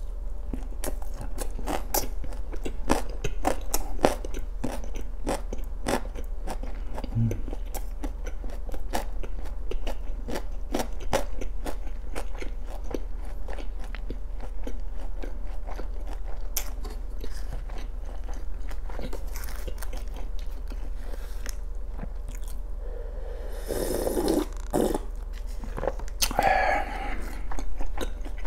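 Close-miked chewing of a mouthful of kimbap, the seaweed-wrapped rice roll: a steady run of small wet clicks and crunches. Twice near the end a brief, louder and fuller mouth sound stands out.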